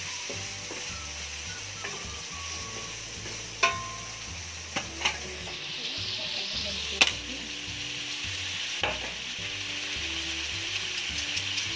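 Chicken pieces sizzling as they fry in a metal wok, stirred with a wooden spatula that knocks against the pan several times. The sizzle grows louder from about halfway through.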